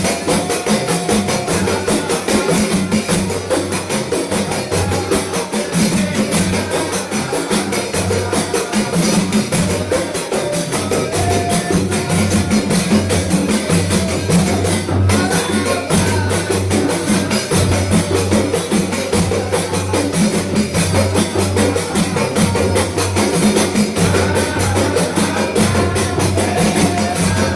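Ensemble of Javanese terbang frame drums played by hand in a fast, dense interlocking rhythm, with a steady deep low drum tone beneath.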